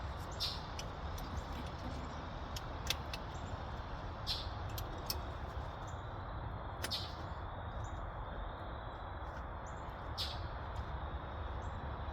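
A bird chirping a short high note about every three seconds over steady outdoor background noise, with scattered faint clicks.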